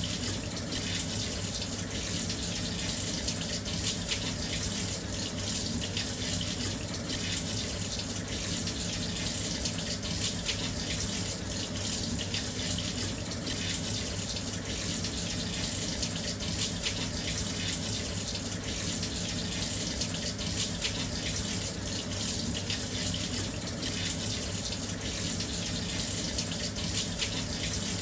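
Washing machine filling with water: a steady, continuous rush of water pouring into the drum.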